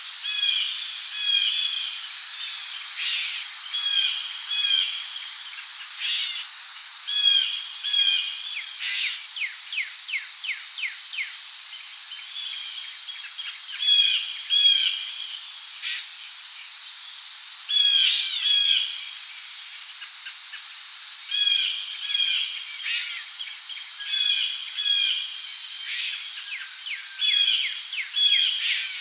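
Rainforest ambience: a steady high-pitched drone of crickets and other insects, with birds repeatedly giving short chirping calls, often in pairs or quick runs, every second or two.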